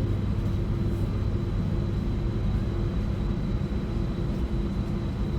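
Electric commuter train running, a steady low rumble with a constant hum above it.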